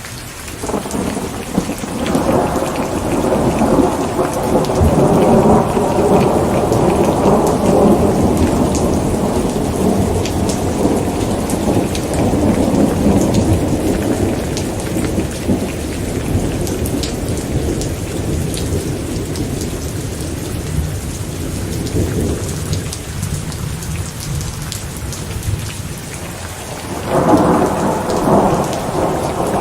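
Steady rain falling during a thunderstorm. A long rolling rumble of thunder swells about two seconds in and slowly fades, and a second peal breaks in sharply near the end.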